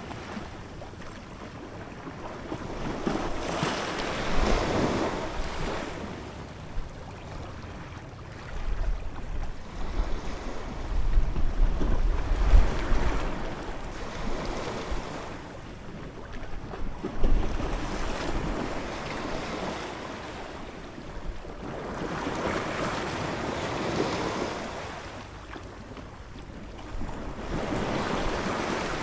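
Ocean waves breaking and washing in, swelling and fading every few seconds. Wind buffets the microphone with a low rumble about a third of the way in.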